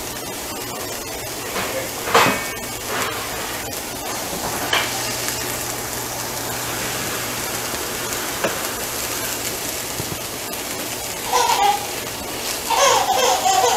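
Chopped onions and garlic sizzling steadily in oil in a cast-iron skillet, stirred with a wooden spoon that knocks against the pan a few times, most sharply about two seconds in. Voices come in near the end.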